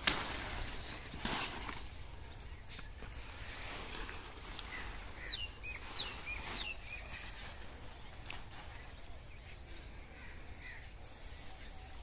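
Quiet rural field ambience: a sharp click right at the start and another about a second in, then a bird calling with a few short, quickly falling chirps around the middle.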